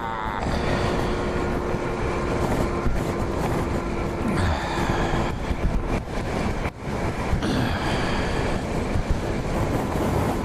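Strong wind buffeting the microphone over the BMW G 650 GS Sertao's single-cylinder engine running on the move. A steady drone runs through the first half, and the engine note falls briefly about four seconds in.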